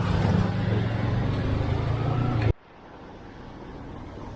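Engine and road noise of a moving vehicle, a steady low hum, cutting off abruptly about two and a half seconds in to a much quieter steady background noise.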